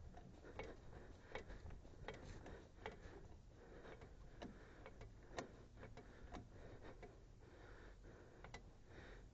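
Car jack being worked to lift the front of a car, giving faint, sharp clicks roughly once a second.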